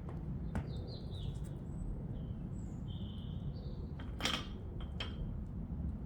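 Birds chirping over a steady low rumble, with a few sharp knocks, the loudest about four seconds in.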